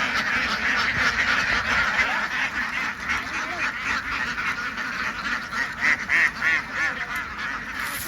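A large flock of laying ducks quacking, a dense chorus of many overlapping calls.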